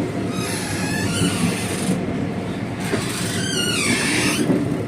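Running noise of an ICF passenger coach in motion: a steady rumble with two spells of high squealing that slide in pitch, the first about half a second in and the second about three seconds in.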